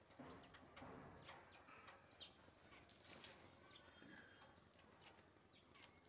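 Faint scattered bird chirps and short calls over light outdoor background hiss, from small birds such as the house sparrows feeding at a seed feeder.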